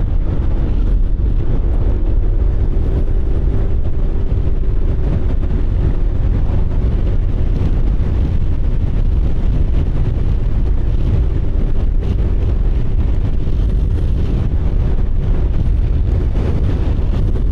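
Motorcycle riding at a steady speed: wind buffeting the microphone over a low engine and road drone, with a faint steady hum.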